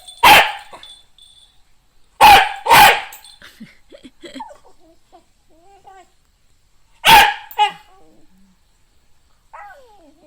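Shiba Inu barking: one bark at the start, a quick pair about two seconds in, and another pair about seven seconds in, with faint high whines between.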